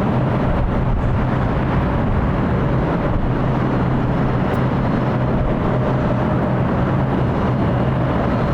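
Steady jet-engine noise from an airliner, with a constant low hum and a faint higher tone, holding at one level throughout.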